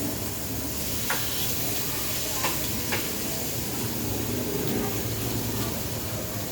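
Food sizzling steadily on a hot grill, with three light clicks about one, two and a half and three seconds in.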